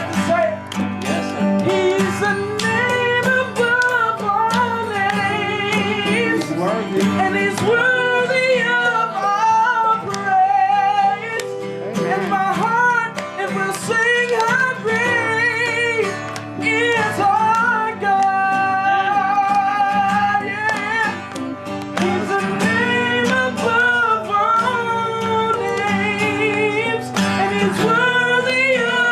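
A praise song sung with vibrato to guitar accompaniment.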